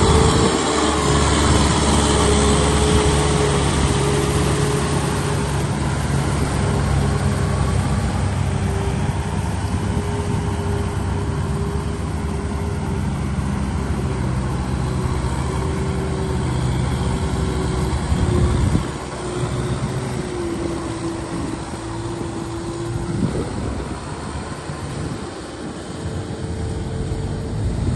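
Tractor engine running steadily under load while working in deep mud. Its sound drops and gets quieter about two-thirds of the way through.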